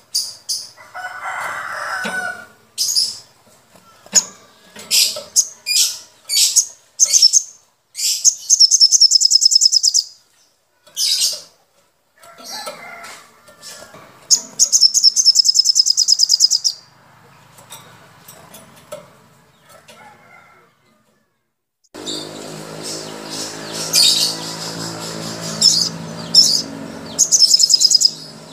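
Caged songbirds singing and chattering: sharp high chirps broken by rapid, high trills about two seconds long. Near the end the birdsong continues over a low steady hum.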